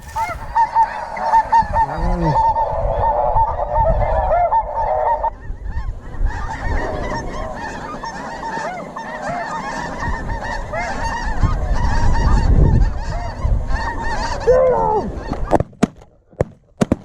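A flock of snow geese calling: a dense, overlapping chorus of short high honks, with wind rumble under it. The calling thins briefly about five seconds in, picks up again, and stops near the end, where a few sharp sounds follow.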